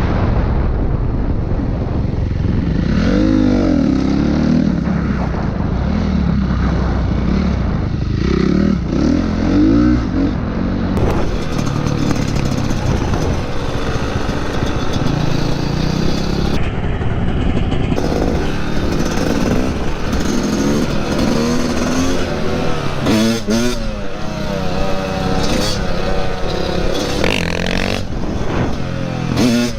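Dirt bike engines running and revving, the pitch rising and falling several times over a steady rumble of wind and road noise.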